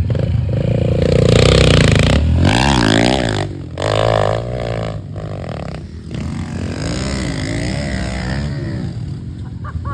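Pit bike engine revving hard while being ridden, its pitch climbing and falling again and again as the throttle is worked.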